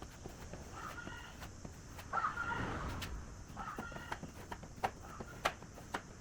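An animal calling in three short bursts about a second apart, the middle one the loudest, with a few sharp clicks or taps in the second half.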